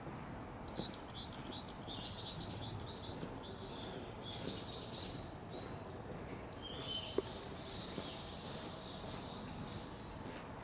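Small birds chirping in quick runs of short, high notes, over a steady low background hum. A single sharp click about seven seconds in.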